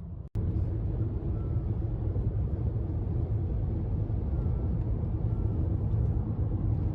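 Steady low rumble of a vehicle in motion, heard from inside it, starting after a brief dropout at the cut.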